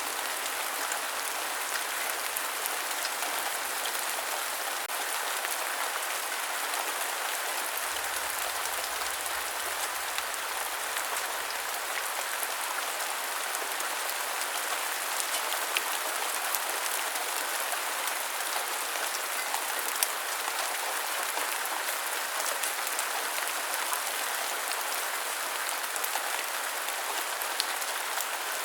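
Steady rain: an even hiss of falling rain with scattered sharper drop ticks, a few of them louder.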